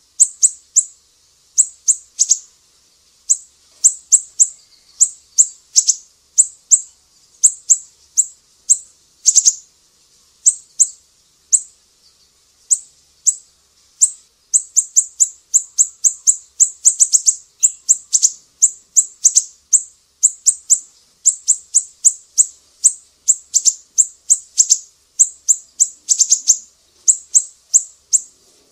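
Masteran tutor recording of small songbirds, from a mix of cililin, lovebird and siri-siri calls: rapid, high-pitched short chirps in quick clusters with brief gaps between them. It is a call track played to teach caged songbirds such as murai batu and kacer to copy these calls.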